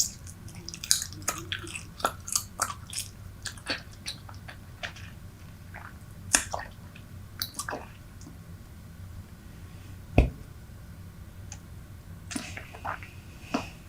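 Close-miked chewing of Super Bubble bubble gum: quick wet clicks and smacks, dense in the first few seconds and sparser after, with one louder thump about ten seconds in. The gum has gone hard from long chewing.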